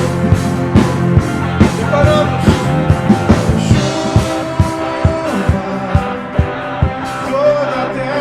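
Live worship band playing: a steady drum beat under sustained chords, with the deep bass falling away near the end.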